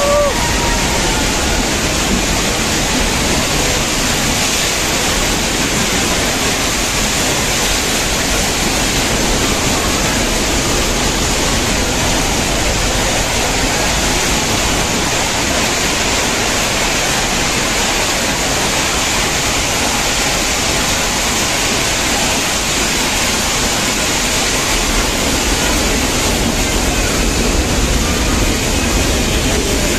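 Steady, loud rushing noise of the Ooty toy train (Nilgiri Mountain Railway) in motion, heard from aboard, even throughout with no distinct beats or tones.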